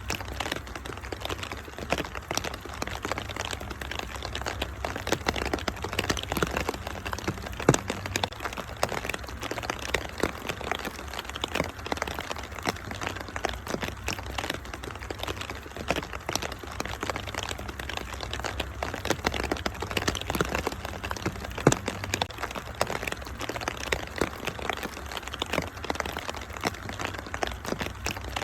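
Wood fire crackling in a fireplace, with frequent sharp pops and snaps, over a steady rain-like hiss and a low rumble.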